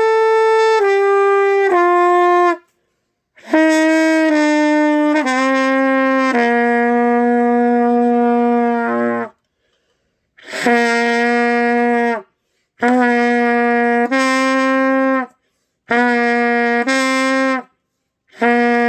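Trumpet playing held notes stepping down a scale to the open low C, the last held about three seconds. Then come short two-note phrases around low C with breath gaps between them.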